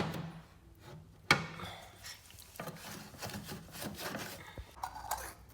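Knocks, clicks and rubbing from handling the drain pump filter of an LG washing machine being cleaned out, with one sharp knock about a second in.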